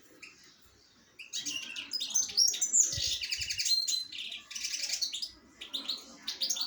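Small birds chirping and trilling in rapid bursts of high notes, starting about a second in, with a brief low thump near the middle.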